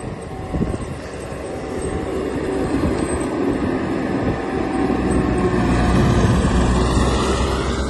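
Engine running steadily and slowly building in loudness, its pitch rising toward the end as it revs up.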